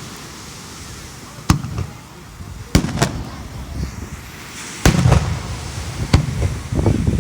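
Aerial fireworks shells bursting: a series of sharp bangs, several a second or so apart, each trailing off in a low rumble that echoes on, with the bursts coming thicker near the end.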